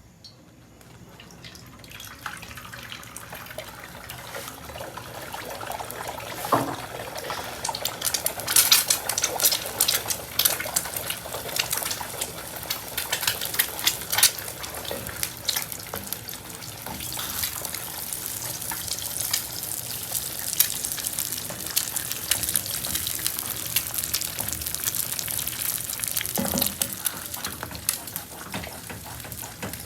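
Food frying in a pan: a steady sizzle full of sharp crackles that starts about a second in and grows louder.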